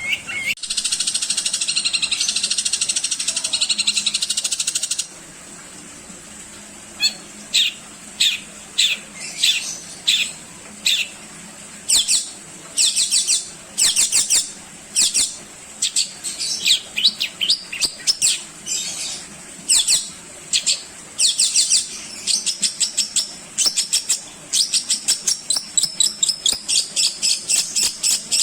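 Long-tailed shrike (cendet) in full song, its phrases packed with fill-ins. It opens with a dense, rapid, high chatter lasting about five seconds. After a short gap comes a long run of short, sharp, high notes that come faster and faster toward the end.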